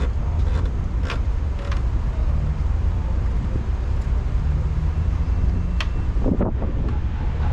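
Steady low rumble of a vehicle running, with a few sharp clicks and a short squeak a little before the end.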